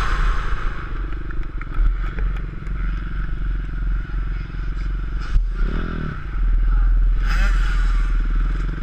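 Onboard sound of a 450 motocross bike's engine running at low, uneven throttle, with a short rev a little past halfway and louder running from about two-thirds through.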